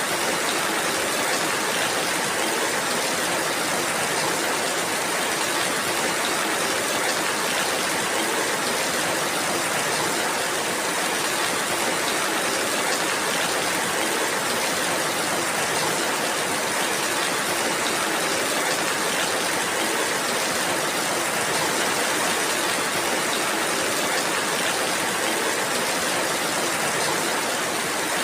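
Steady rainfall: an even, unbroken hiss of many drops that holds the same level throughout.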